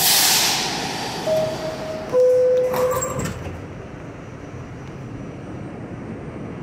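R68 subway car door chime sounding two descending tones, followed by the sliding doors closing; the car falls to a quieter steady hum afterward. A burst of air hiss comes at the start.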